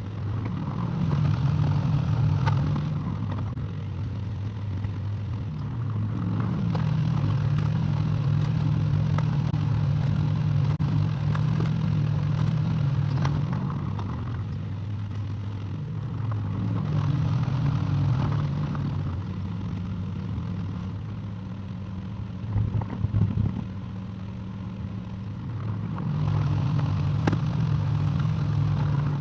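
Excavator's diesel engine running with its hydraulics working; the engine note swells under load several times, then drops back. A short burst of knocking comes about three-quarters of the way through.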